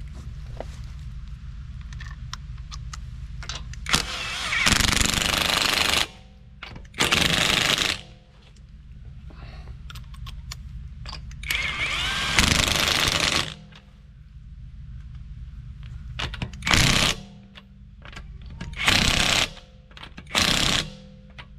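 Impact wrench run in repeated bursts: two long runs of a second or two, a shorter one, then four short bursts of about half a second near the end, over a steady low hum.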